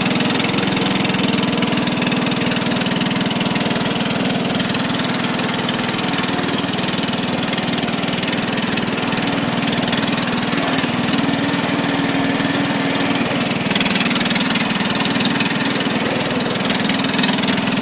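Briggs & Stratton engine with a cast-iron cylinder sleeve on a Sabre by John Deere lawn tractor, running steadily at idle.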